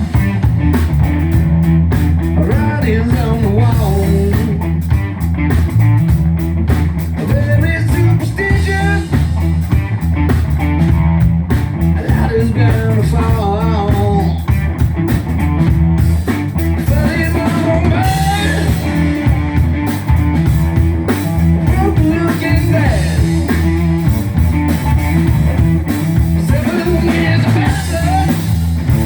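Live blues-rock band playing at a sound check: bending electric guitar lines over steady bass and drums.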